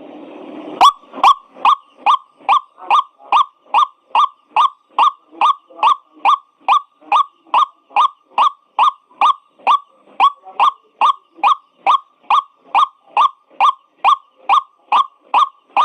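White-breasted waterhen (ruak-ruak) giving its repeated call: a long, even run of short, sharp notes, about two and a half a second, starting about a second in after a brief burst of noise.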